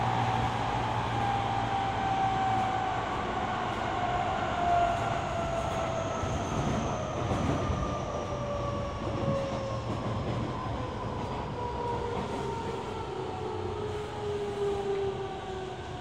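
Toyo Rapid Railway 2000 series electric train heard from inside the car as it brakes into a station. The motor whine falls steadily in pitch over the rumble of the wheels on the rails as the train slows toward a stop.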